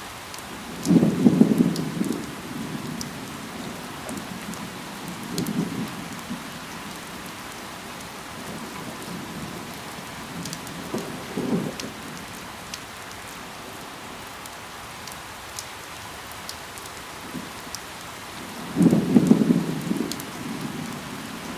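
Steady rain falling on foliage, with scattered sharp drop ticks. Short, louder low surges come about a second in, near 5 and 11 seconds, and again near 19 seconds, the first and last being the strongest.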